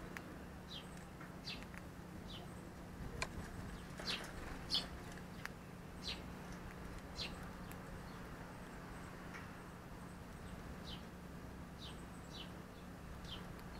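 A small bird gives short, high chirps that fall in pitch, about one a second and unevenly spaced, over a faint steady low hum. A few sharp clicks come about three to five seconds in.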